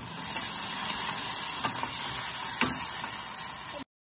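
Sliced onions and whole spices frying in oil in a stainless-steel pot: a steady sizzle, with a spatula stirring through them and clicking against the pot twice.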